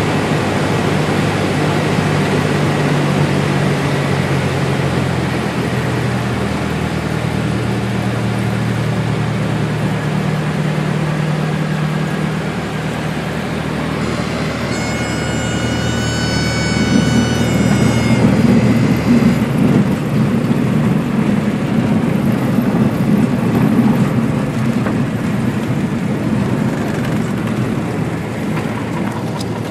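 Cessna 172 engine running at low power in the landing flare, with the stall warning horn sounding a steady high tone for about four seconds about halfway through. Right after, a louder rough rumble builds for several seconds, typical of the wheels touching down and rolling on the runway, then eases off.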